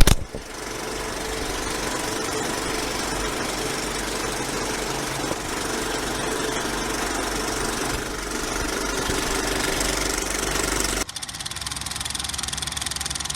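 Yamaha MT-07 parallel-twin motorcycle engine with an Akrapovic exhaust running steadily, after a sudden loud hit right at the start. About eleven seconds in the sound changes abruptly, and the engine's low rumble stands out more.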